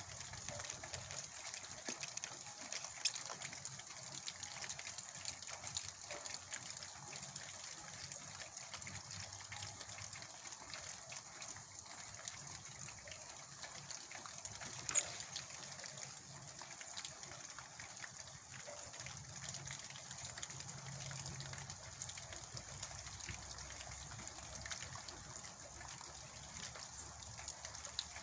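Steady rain falling, a continuous hiss of many small drops pattering, with two sharper taps about three seconds and fifteen seconds in.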